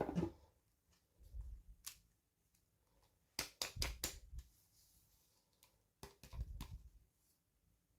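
Hands handling small plastic toy pieces and packaging: light clicks and taps in three short clusters, with soft low thumps.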